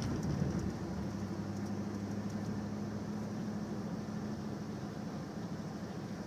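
Car engine and road noise heard from inside the cabin: a steady low hum under an even hiss.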